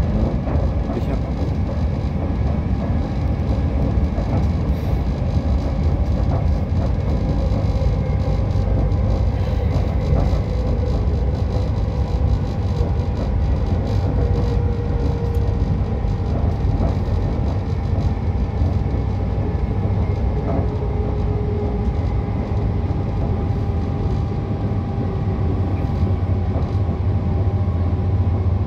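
Steady low rumble and rail noise of an electric passenger train running at speed, heard inside the carriage.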